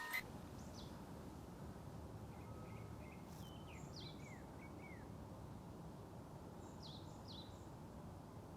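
Steady low outdoor ambience with a few faint bird chirps: a short run of quick falling chirps about three to four seconds in, and two more near the end.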